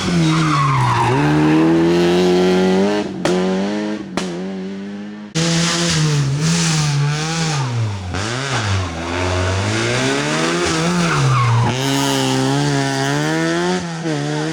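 Rally car engines revving hard through a hairpin, the pitch repeatedly dropping and climbing with the throttle and gear changes, with tyre squeal as the cars slide through the turn. There are two sharp cracks about three and four seconds in, and a second car takes over abruptly about five seconds in.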